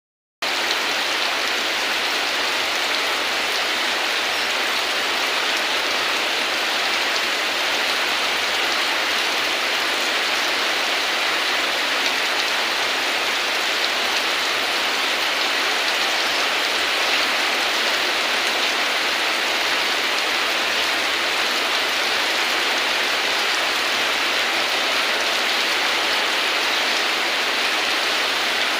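Steady rain falling on a surface, an even hiss that starts about half a second in.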